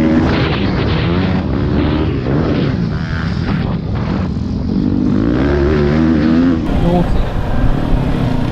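Pit bike engines revving on the track, pitch rising and falling as the throttle is worked.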